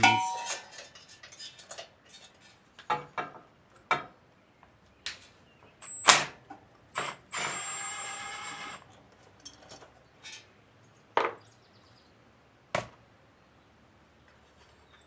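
Hand tools and metal engine parts clinking and knocking while bolts are worked off a small engine, with a metallic ring at the start, a loud knock about six seconds in and a short rasping stretch just after.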